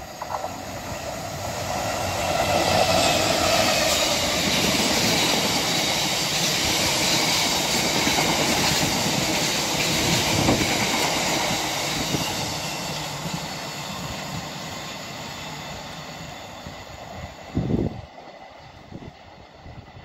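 Freight train of grey bogie tank wagons running through: a continuous rumble of wheels on rail that builds over the first couple of seconds, stays loud for about ten seconds and then slowly fades as the wagons draw away, with a brief thump near the end.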